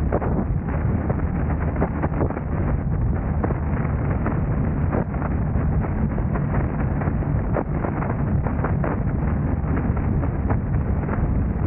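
Steady road and engine noise of a car driving, with a constant low hum and frequent small irregular clicks or rattles.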